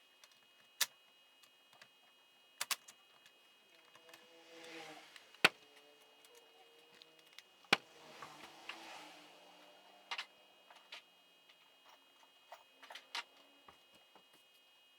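Hand tools and small engine parts clicking and knocking against each other during the teardown of a two-stroke YZ85 engine. The sharp knocks come every second or two, the loudest about five and a half seconds in.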